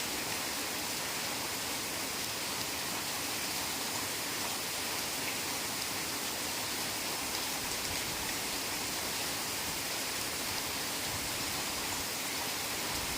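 Heavy rain falling steadily in a forest: a constant, even hiss with faint patter of drops.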